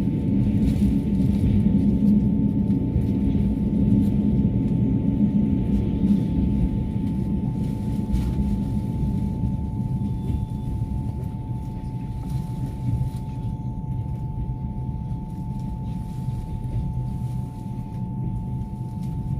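Passenger train running, heard from inside the carriage: a steady low rumble of the wheels on the rails with a faint steady whine above it. It grows somewhat quieter over the second half.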